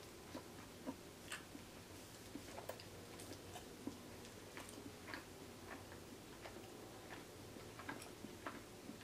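Close-miked chewing of a queso-dipped breadstick, heard as faint, irregular wet mouth clicks and pops, about one or two a second.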